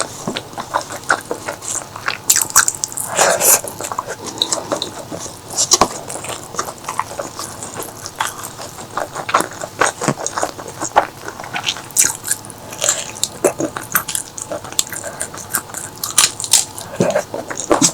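A person chewing food close to the microphone, with a dense run of short wet mouth clicks and small crunches throughout.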